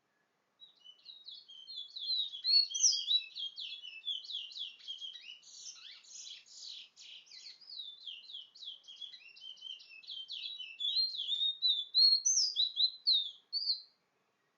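A songbird singing one long continuous song of rapid, varied chirps and trills for about thirteen seconds, loudest around two to three seconds in and again near the end, where it stops suddenly.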